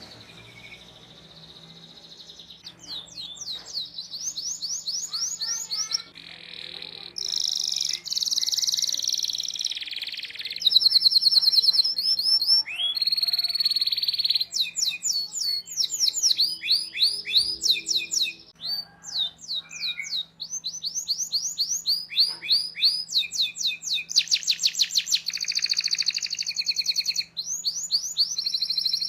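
Domestic canary singing long rolling song: fast runs of repeated chirps and trills, phrase after phrase with short breaks between them.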